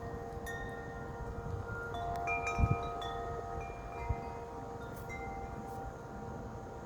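Several wind chimes ringing in gusty wind, struck again and again so that their overlapping tones ring on together. Wind rumbles on the microphone throughout, with a brief bump about two and a half seconds in.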